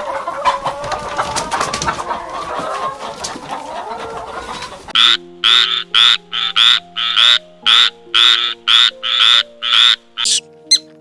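Animal calls over background music. First comes a dense, overlapping chorus of wavering calls. About halfway in it gives way to a single loud, high call repeated about three times a second.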